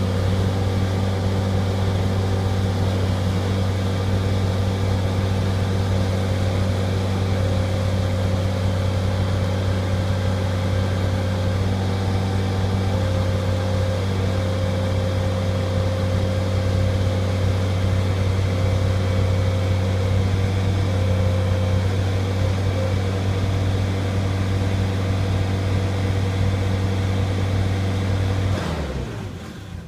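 Bobcat skid-steer loader engine running at a steady speed, then shut off near the end, its sound dying away over about a second.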